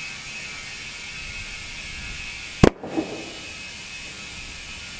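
A Yokohama Geolandar mud-terrain tyre's bead pops onto the wheel rim as the tyre is inflated: one sharp, loud pop about two and a half seconds in, a smaller one just after, over a steady hiss.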